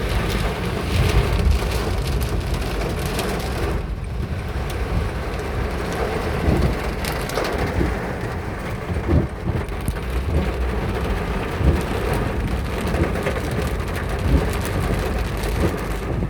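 Heavy rain and hail pelting down in strong, gusty wind, with scattered sharp hits and the wind buffeting the microphone.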